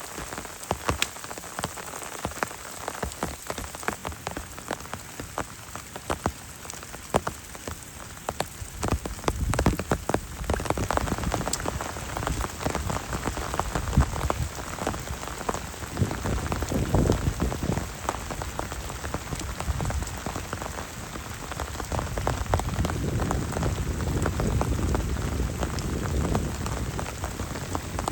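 Heavy rain falling steadily, with many individual drops ticking sharply on a surface. Low rumbling swells rise and fall several times in the second half.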